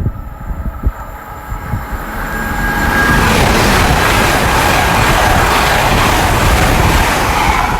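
A GWR Class 802 IET passenger train passes through the station at speed without stopping. Its noise builds over the first three seconds into a loud, steady rush of the passing train, which eases off near the end.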